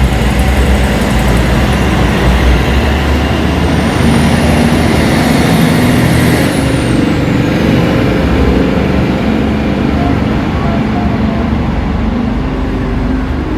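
Train running on the rails: a loud, steady rumble and rush of noise, with a high whine that slowly rises and then falls away about halfway through.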